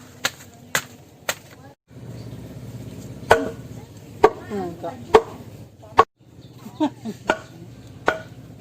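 Sharp chopping strikes on bamboo, about ten single blows spaced roughly half a second to a second apart, with two short breaks.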